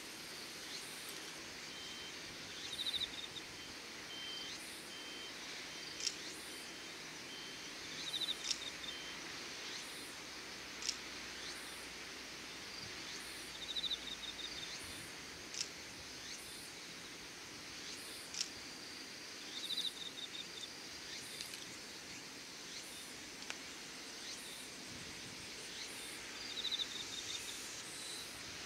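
Insects calling at dusk, likely crickets: short chirping trills about every five seconds over a steady outdoor hiss, with a faint pulsing chirp in the first third and a few sharp ticks.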